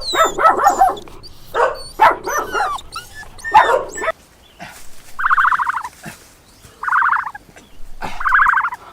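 Animal calls: a quick run of short pitched calls with some gliding notes, then three pulsed, trilling calls about a second and a half apart.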